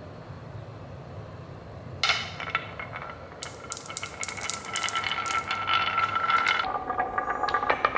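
Small toy pieces rolling and clattering along a plastic toy track, with rapid clicking and a ringing hum. It starts about two seconds in and grows louder, and the ringing drops to a lower pitch near the end.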